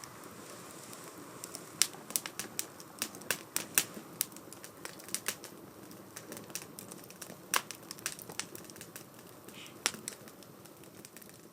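Wood fire burning in a small 2×4 STOVE fire stand: irregular sharp crackles and pops over a steady low rush of flame.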